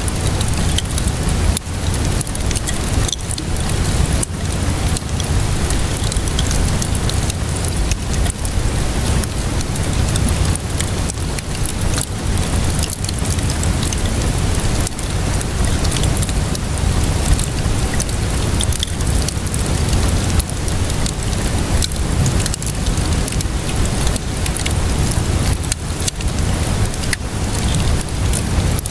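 Wood fire crackling with many scattered small pops, layered with steady rainfall over a low rumble.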